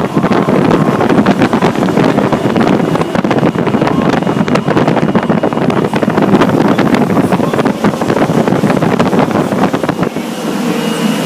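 Fire truck underway, heard from on board: engine and road noise with many rattles and knocks, easing near the end into a steadier hum.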